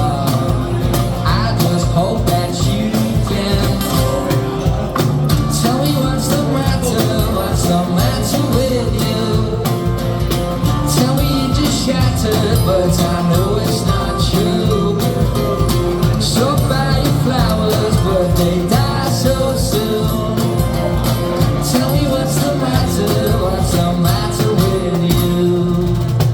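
Live band playing a song loudly, a dense, continuous full-band sound with no break.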